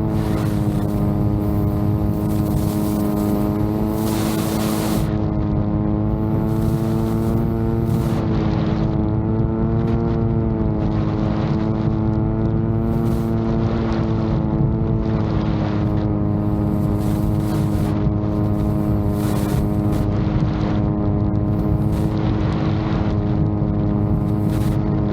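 VTOL drone in flight: its propellers give a steady pitched hum whose pitch wavers slightly now and then. Gusts of strong wind buffet the microphone throughout.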